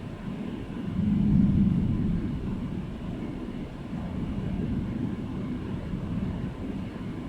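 Low rolling rumble of thunder, swelling about a second in and then slowly dying down to a lower, uneven rumble.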